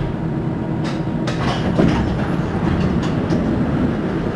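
Düsseldorf SkyTrain suspended monorail car heard from inside the cabin: a steady rumble from the running gear, with a few sharp clatters about one to two seconds in.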